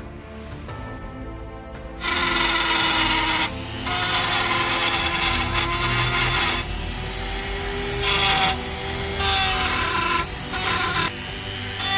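A power tool working on the knife's steel, starting about two seconds in and cutting in and out in several bursts of a second or two, with background music underneath.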